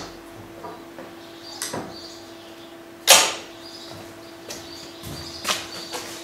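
Clamps and wooden boards knocking and clunking on a workbench as glued boards are clamped up, with a sharp knock about three seconds in and a few lighter ones around it.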